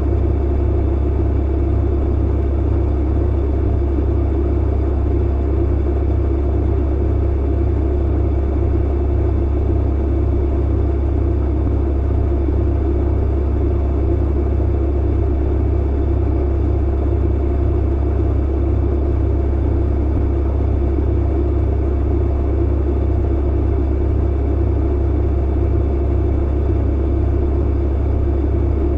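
Clothes dryer running, a steady low hum and rumble that does not change.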